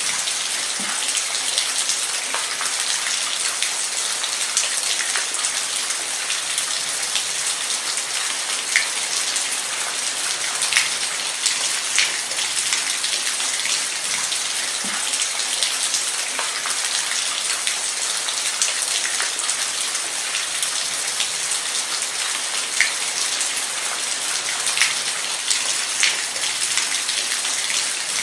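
Steady heavy rain falling on a surface, a constant hiss with scattered louder individual drop splats.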